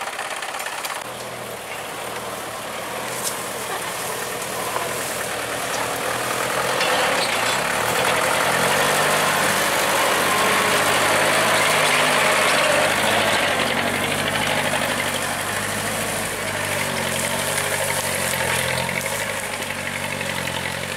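Loaded truck's engine running as the truck sets off. It grows louder over several seconds, then eases, its pitch shifting in steps.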